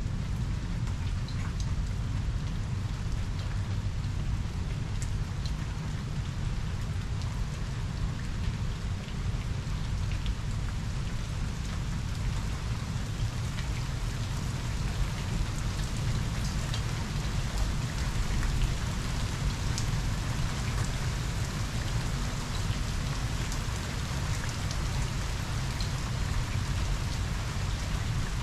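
Steady heavy rain falling on pavement and lawn, with scattered close drips ticking, over a low continuous rumble of distant thunder.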